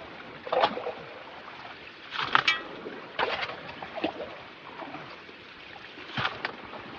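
Water splashing and sloshing in about five short bursts over the steady rush of a creek, from a gold pan being worked in the stream water.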